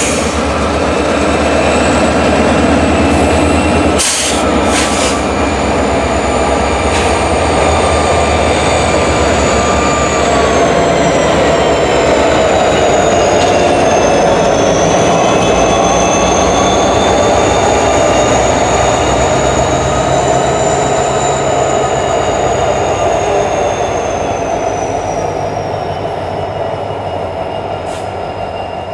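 Diesel-electric freight locomotives rolling slowly past close by, a low engine rumble under high wheel-flange squeals that glide up and down in pitch. A few sharp clanks come about four and five seconds in, and the sound fades toward the end.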